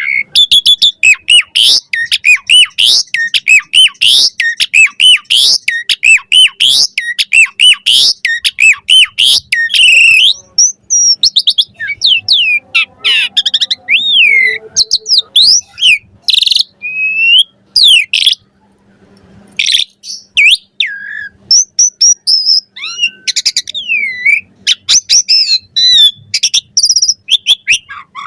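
Jalak suren (pied starling) singing a long, varied song. It opens with a rapid run of short whistled notes for about ten seconds, then slows into more varied whistles, gliding notes and a few harsher notes.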